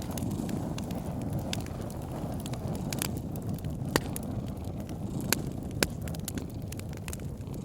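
Wood fire in a fireplace crackling, with sharp pops at irregular moments over a steady low rumble; the loudest pops come about four and six seconds in.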